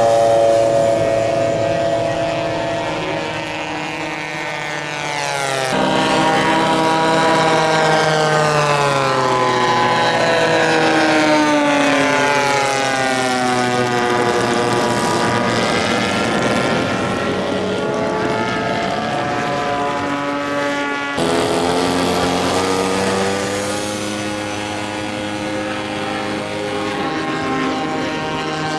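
Propeller engines of giant-scale radio-control model aircraft flying past, their pitch sliding slowly up and down as they pass. The sound changes abruptly twice.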